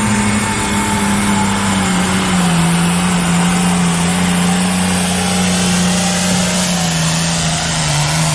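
Pulling tractor's engine at full throttle under heavy load as it drags the weight sled. The engine note is loud and steady, sagging slowly lower in pitch as the load builds.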